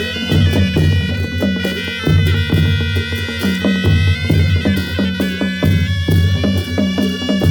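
Nepali Naumati Panchey Baja band playing: a nasal reed wind melody of held and ornamented notes over a steady, repeating drum beat with sharp percussive strikes.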